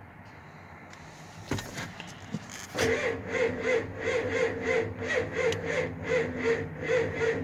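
Starter cranking a cold diesel engine slowly and laboriously, a clunk as it engages and then an even chug of about three compression strokes a second that never catches. The sluggish cranking is from weak, worn-out batteries.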